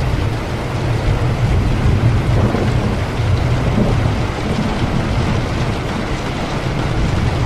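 Steady heavy rain with a continuous low rumble of thunder underneath.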